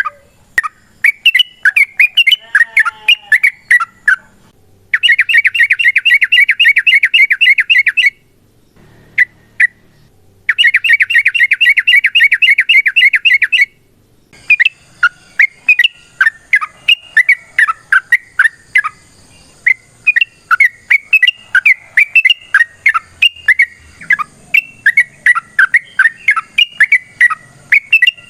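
Yellow-vented bulbul (trucukan) calling loudly in its fighting mood: rapid choppy whistled notes, broken twice by a long fast rattling trill of about three seconds each, the long 'ropel' song.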